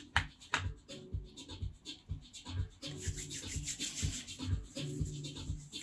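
Tarot cards being shuffled by hand: papery rubbing and irregular soft taps, over quiet background music.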